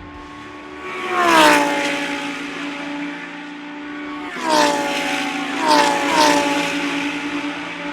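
Lamborghini Huracán Super Trofeo race cars' V10 engines passing at speed: one goes by about a second in, then three more close together from about four and a half seconds. Each swells to a peak and then drops in pitch as it passes.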